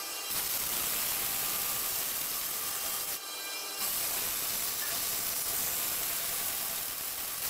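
Bandsaw blade cutting through a block of ebony: a steady rasping hiss, broken by a short pause about three seconds in before the cut resumes.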